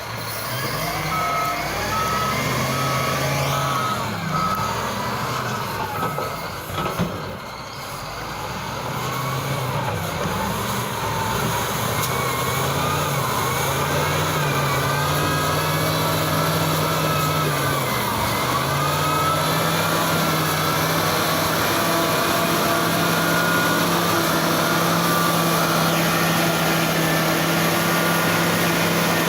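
Diesel engine of an XCMG ZL50GN wheel loader working, its pitch rising and falling with the throttle, then holding steady for roughly the last third. A reversing alarm beeps steadily during the first few seconds.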